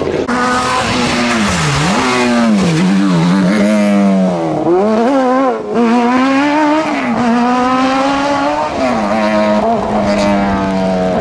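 Rally car engine being driven hard along a stage. Its pitch climbs under acceleration, then drops sharply several times at gear changes and lifts off the throttle.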